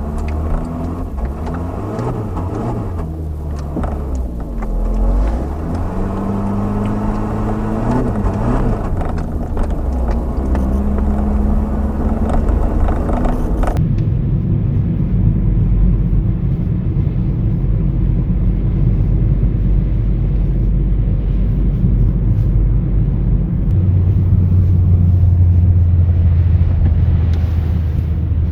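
Volkswagen Jetta 2.0 four-cylinder engine under way with a manual gearbox, its pitch rising and falling with revs and gear changes, then about halfway through the sound switches suddenly to a steady low rumble of engine and road noise that grows heavier near the end.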